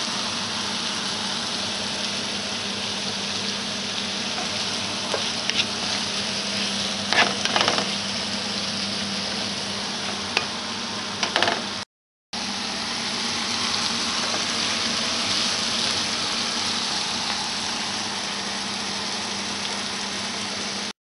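Chicken and vegetables sizzling steadily in a non-stick frying pan, with a few knocks and scrapes of a wooden spatula stirring them a few seconds in. The sound drops out for a moment about halfway.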